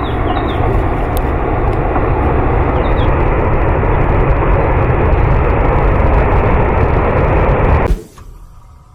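Landslide debris flow tearing through a forest: a loud, steady rumble of moving earth, rock and trees that cuts off suddenly about eight seconds in.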